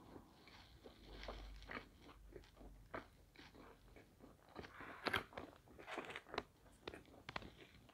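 A person chewing thin-crust pizza close to the microphone: irregular soft crunches and mouth clicks.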